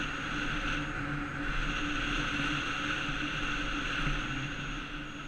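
48-volt electric bike running along a rough road: a steady motor whine over road and wind noise, muffled inside a GoPro waterproof housing. It eases off slightly near the end.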